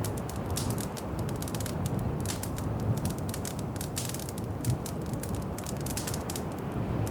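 Wood fire in a fireplace crackling, with frequent irregular sharp snaps and pops over a steady low rumble.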